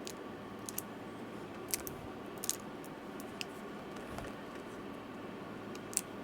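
A handful of light, sharp clicks and taps at irregular intervals over a steady background hiss, from small laptop parts and tools being handled.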